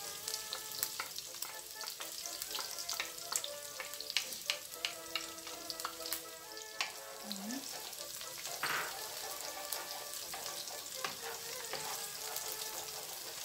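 Garlic and onion sizzling in hot oil in a nonstick wok as oyster sauce goes in, with frequent sharp clicks of a wooden spoon knocking and scraping against the bowl and pan, thickest in the first half.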